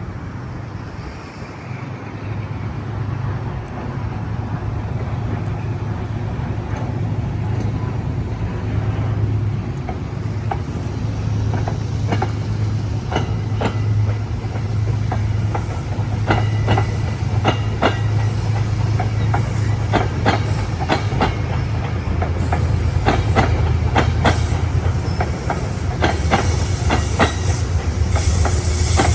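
Passenger train approaching and passing on the rails, a steady low rumble growing louder. From about twelve seconds in, wheels click over rail joints, the clicks coming thicker toward the end.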